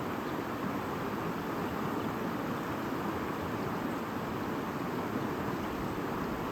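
Shallow stream babbling over stones: a steady, unbroken water murmur.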